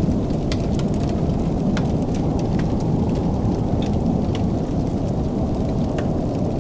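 Wood fire crackling in a fireplace: scattered sharp pops and snaps, a few a second, over a steady low rumble.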